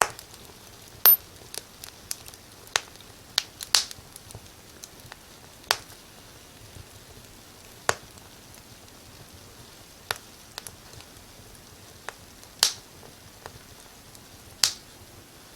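Fire in a fireplace crackling: irregular sharp pops and snaps over a faint steady hiss, with a few louder pops spread through.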